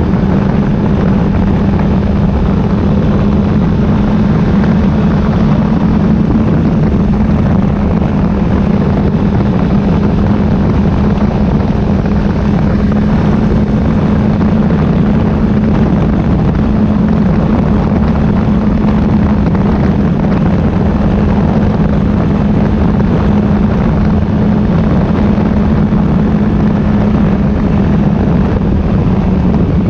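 Motorcycle engine running at a steady cruising speed, its hum holding one pitch and dropping slightly near the end, under loud, constant wind and road noise on the microphone.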